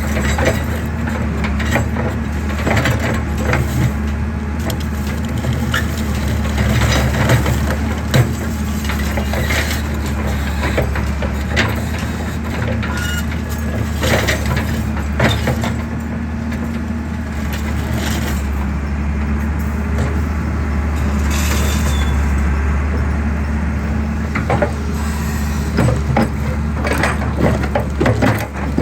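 Excavator's diesel engine running steadily, with frequent irregular cracks and crunches of concrete breaking as the machine crushes a concrete pillar.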